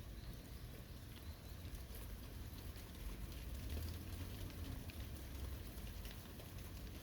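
Steady rain falling, an even hiss with scattered individual drops ticking close by, over a low rumble.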